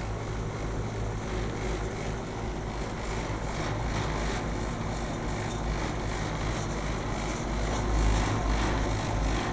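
Rooftop air-conditioning unit running: a steady electrical hum with the rush of its fan. A low rumble swells briefly about eight seconds in.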